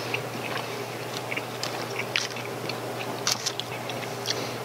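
A man chewing a mouthful of smoked chicken, picked up close by a clip-on microphone: soft wet mouth clicks and crackles scattered through, over a low steady hum.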